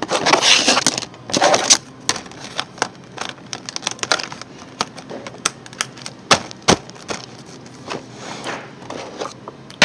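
Small plastic toys and their packaging being handled: a burst of rustling near the start and again a second later, then irregular clicks and clacks of hard plastic.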